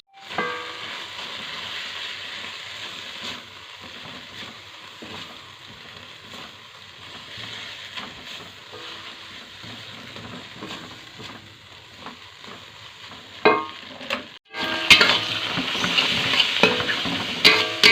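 Lovebirds chattering: a dense, hissing stream of high squeaky chatter, with sharper short chirps standing out in the last few seconds.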